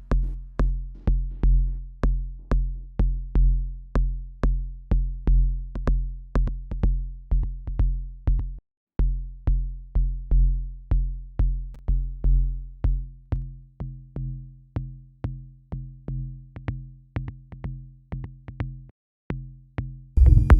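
A lone electronic kick drum looping steadily at about two hits a second. Each hit is a short click followed by a fading low boom. The loop cuts out briefly twice, and the hits get quieter toward the end.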